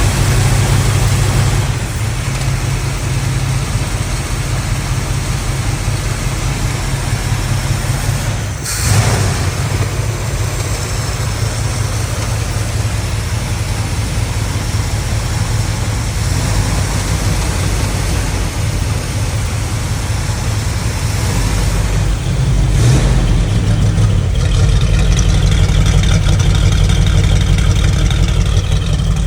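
1977 Ford F350's 5.8-litre V8 engine running steadily at idle, with one sharp knock about nine seconds in. The engine gets somewhat louder over the last five seconds.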